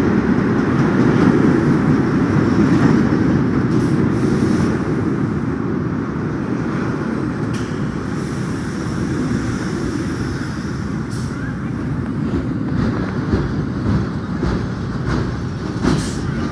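Subway train running on the rails: a steady rumble with a few sharp clicks, slowly getting quieter.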